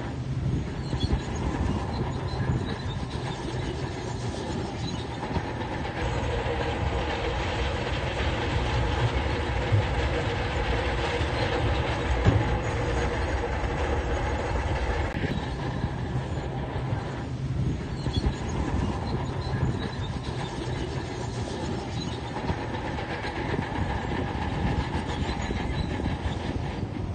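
Heavy tracked construction machinery at work: a diesel engine running steadily under load, with the rolling noise of steel crawler tracks.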